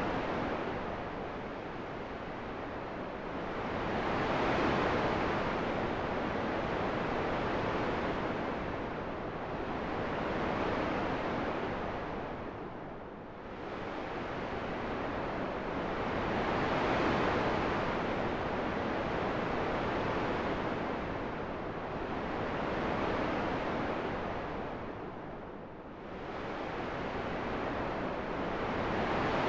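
Wind blowing as a steady rushing hiss that swells and eases in slow waves, with two deeper lulls about thirteen seconds apart.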